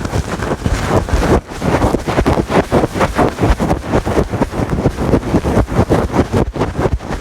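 Fast, loud scratching on a fluffy fur microphone windscreen, in quick strokes of several a second that rumble in the mic.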